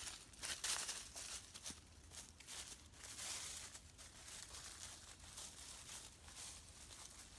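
Faint, irregular rustling and crackling with short crisp spikes.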